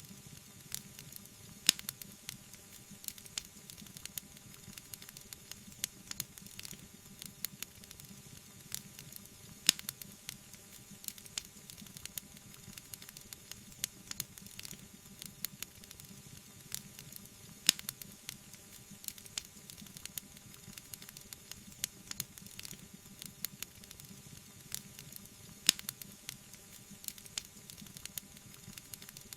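Wood fire crackling in a fireplace: a steady hiss with many small snaps and a few louder pops, about every eight seconds.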